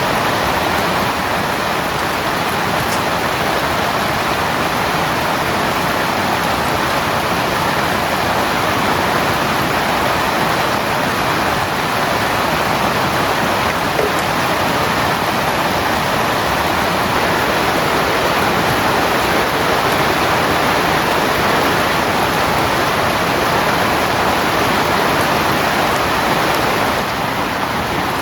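Heavy rain falling steadily on a tent, an even, unbroken hiss of drops that eases slightly near the end.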